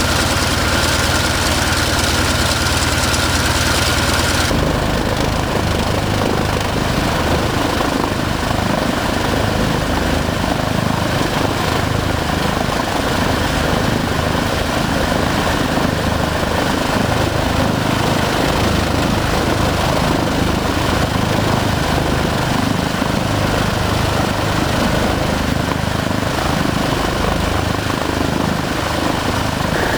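Douglas DC-6's Pratt & Whitney R-2800 radial piston engines running on a ground test run, loud and steady. About four and a half seconds in, the sound changes abruptly: a thin steady tone and a smooth low hum give way to a rougher, fuller engine and propeller noise.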